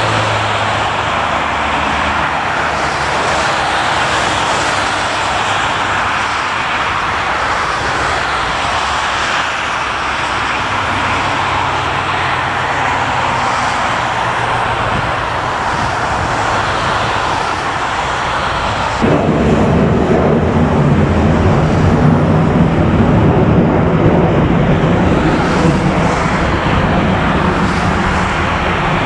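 Jet airliner engines running with a steady loud roar. About two-thirds of the way in the sound jumps abruptly to a louder, deeper engine rumble from another aircraft.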